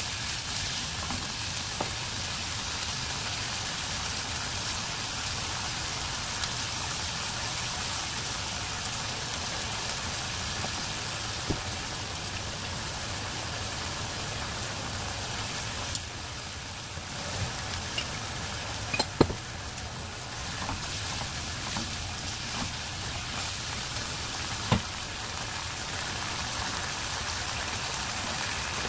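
Sliced beef and onion sizzling in a hot nonstick wok during a stir-fry, with a steady frying hiss and a few sharp clicks of chopsticks and spoon against the pan, most of them a little past halfway.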